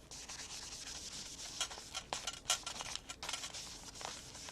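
Ink being rubbed onto paper journal pages with a blending pad: a steady, dry, scratchy rubbing broken by several short taps.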